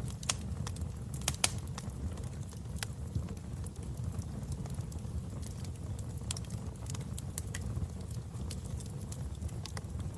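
Wood fire burning in a fireplace: a steady low rumble of flames with irregular sharp crackles and pops, the loudest pop about one and a half seconds in.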